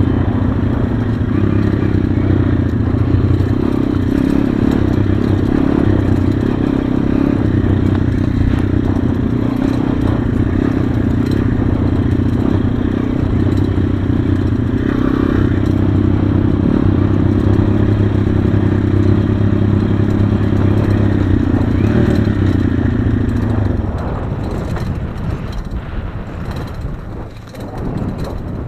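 Single-cylinder four-stroke pit bike engine running at a steady, even pitch, then dropping away about 24 seconds in.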